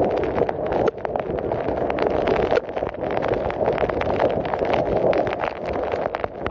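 Violent wind and heavy rain: a loud, steady roar of wind buffeting the microphone, with rapid sharp knocks and patters all through.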